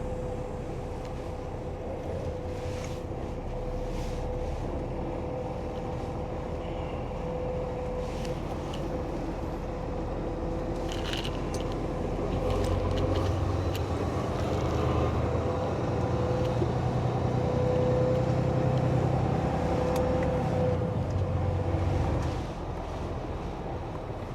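Semi truck running, heard from inside the cab: a steady engine and road drone that grows louder about halfway through and eases back shortly before the end.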